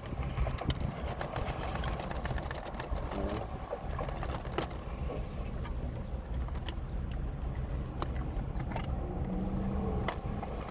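Someone eating: scattered clicks and taps of a utensil and a takeout container over a steady low rumble.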